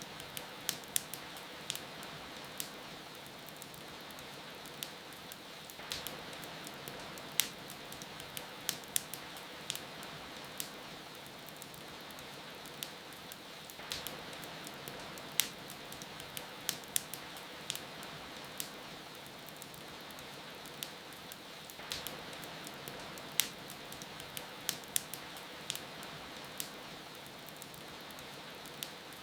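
Steady hiss of rain with a wood fire crackling over it in sharp, scattered pops. The pattern of pops repeats about every eight seconds.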